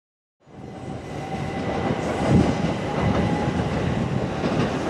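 Train running past on the track, wheels rumbling and knocking over rail joints, with a thin steady whine above. It starts about half a second in and swells over the next second.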